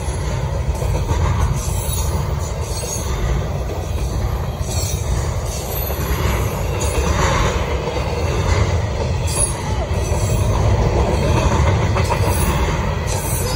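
Double-stack intermodal freight train's well cars rolling past close by: a steady rumble of steel wheels on the rails.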